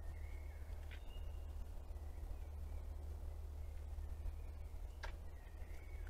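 Songbirds calling faintly in the forest: short, thin whistled notes, with a sharp click about a second in and another near the end, over a steady low rumble.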